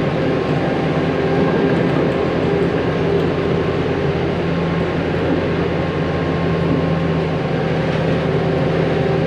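Engine of a loader running steadily at a constant speed, a low even drone while the machine is slowly manoeuvred into position.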